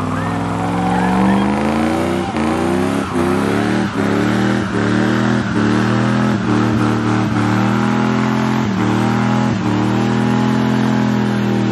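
Second-generation Dodge Ram pickup doing a burnout: engine held at high revs, its pitch dipping briefly about once a second, with the rear tyres spinning on the pavement.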